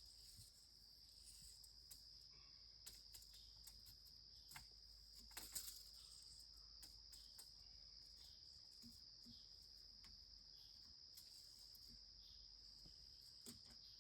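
Faint, steady high-pitched chirring of crickets, with a few small scattered clicks, the clearest about halfway through.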